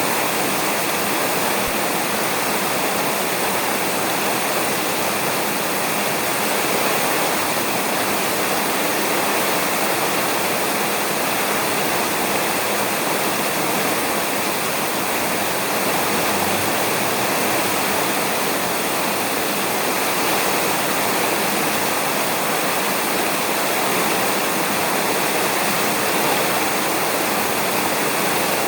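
Steady heavy rain falling on a roof, an even, unbroken hiss with no thunder.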